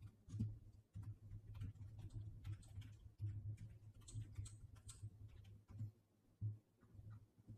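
Clicking and tapping at a computer keyboard and mouse, short irregular clicks in quick succession with dull low thuds from the desk, thinning out near the end.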